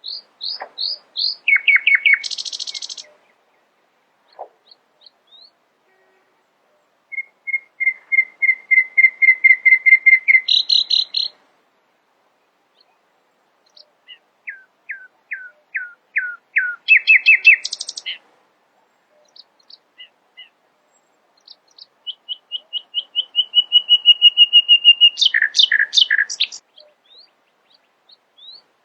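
Nightingale singing: four song phrases with pauses of a few seconds between them, each built of rapidly repeated whistled notes. The longer series swell in loudness and end in a quick rattle.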